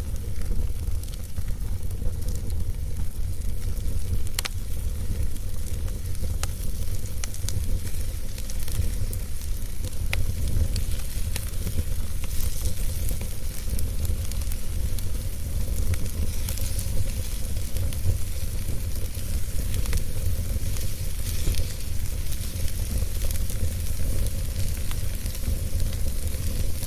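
Wood fire burning in a fireplace: a steady hissing crackle over a low rumble, with scattered sharp pops, one clear pop about four seconds in and another about ten seconds in.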